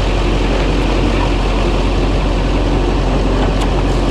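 Chevy K3500's Duramax V8 turbo-diesel engine idling steadily.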